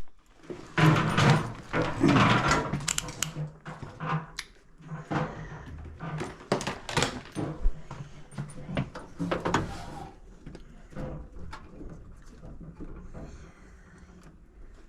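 Irregular knocking, clatter and rattling, busiest in the first few seconds and again around the middle, dying down toward the end, over a faint low hum.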